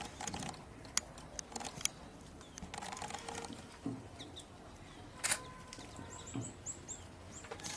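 A small bird calling with a quick run of about eight short, high, down-slurred notes near the end, a couple of fainter notes a few seconds earlier, and scattered sharp clicks throughout.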